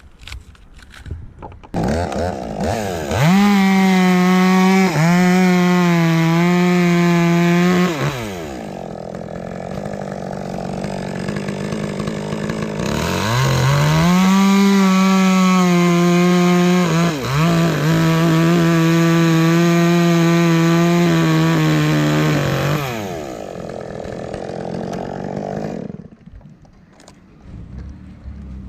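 Two-stroke chainsaw cutting dead, rotten wood: it revs up high under load for a cut of about five seconds, drops back to idle, makes a second longer cut of about ten seconds with a brief dip in speed partway, idles again and then shuts off near the end.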